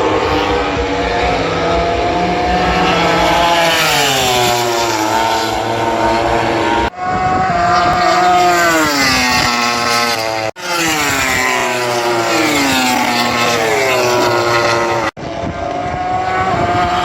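MotoGP racing motorcycles passing at top speed, about 320–330 km/h, each four-cylinder engine held at high revs and then dropping steeply in pitch as the bike goes by. Several separate flybys are joined by abrupt cuts, about every three to four seconds.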